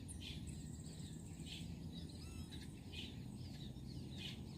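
Outdoor ambience: scattered short bird chirps and a high insect trill over a low, steady rumble.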